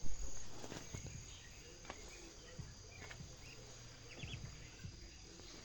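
Quiet rural morning ambience: a steady high insect buzz with a few short bird chirps and scattered faint knocks, after a brief bump at the very start.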